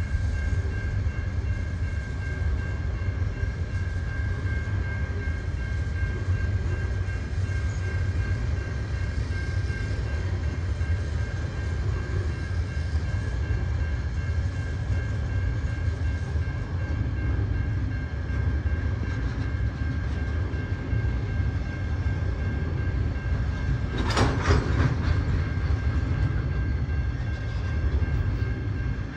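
Freight train wagons rolling past close by: a steady heavy rumble of wheels on rail with a constant high-pitched tone over it. There is one short, loud clatter near the end.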